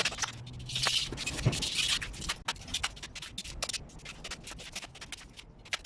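Repeated scraping and rubbing as parts of an old electric water heater are worked apart by hand, with a louder, rougher stretch of scraping about a second in.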